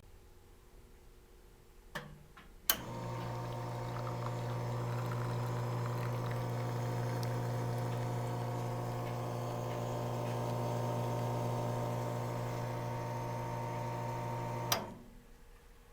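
Nuova Simonelli VFA commercial espresso machine brewing a shot: a click about three seconds in, then the pump runs with a steady hum while liquid pours, and it stops with a click near the end.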